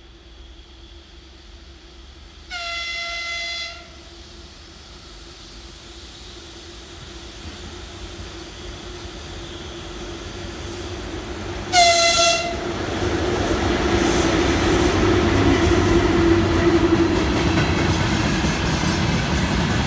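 VL11 electric locomotive sounding its horn twice as it approaches: a blast of about a second, then a shorter, louder one some nine seconds later. Then the rumble and clickety-clack of its tank-car train's wheels grows louder as the train passes close.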